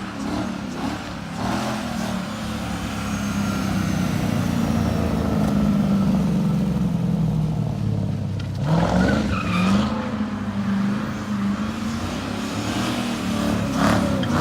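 Car engine held at high revs under power, with tyre noise, as the car drifts. The revs dip and climb again about nine seconds in, and rise once more near the end.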